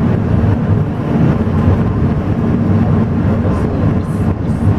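Alishan Forest Railway train running: a steady low rumble that holds even throughout.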